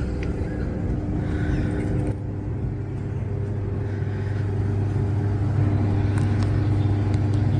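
A steady low engine hum that grows a little louder in the second half.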